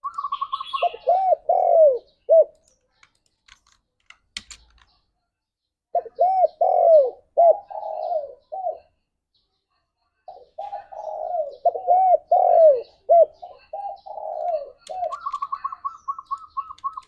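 Spotted dove cooing in three bouts of rising-and-falling coo notes with short pauses between them. A quicker, higher run of repeated notes comes at the very start and again near the end.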